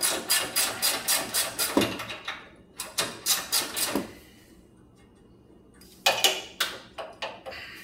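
Ratchet wrench clicking rapidly, about five clicks a second, as a small bolt on a Murray riding mower's deck lift lever is backed out; the clicking stops for a couple of seconds in the middle and then starts again.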